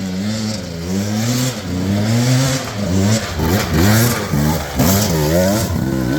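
Dirt bike engine revving in repeated surges, the throttle opened and shut over and over as the rider tries to get up a steep hill climb.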